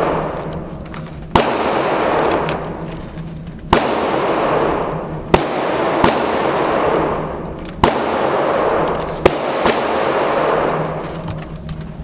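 Handgun shots at a shooting range: five single shots fired at uneven intervals of one and a half to two and a half seconds, each followed by a long echoing tail.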